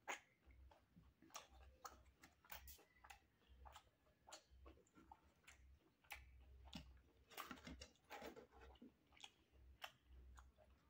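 Faint close-up chewing of chicken, eaten by hand: irregular wet smacks and clicks of the mouth and lips.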